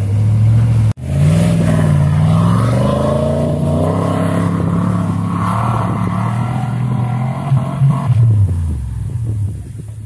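Range Rover P38's engine revving hard under load as the 4x4 climbs a steep, rutted dirt slope, the revs rising and falling repeatedly. After a sharp break about a second in, the engine runs at high revs, then drops away and fades near the end.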